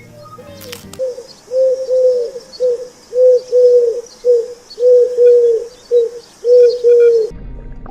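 A bird giving a quick series of low, pure cooing notes, mostly in close pairs, starting about a second in and cutting off shortly before the end.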